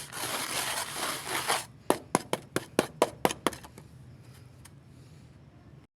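A thick wet paste of powder and water being scraped and worked for about a second and a half, followed by a quick run of about nine sharp taps over the next second and a half.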